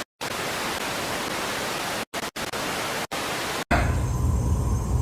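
Even static hiss, broken by several sudden short dropouts to silence. About three-quarters of the way through it cuts off abruptly, giving way to a low steady hum.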